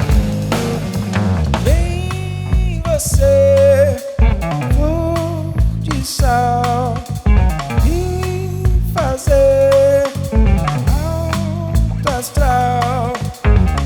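A band playing a song: a drum kit, acoustic guitar and keyboards/synthesizers, with long held melody notes that slide between pitches over a steady beat.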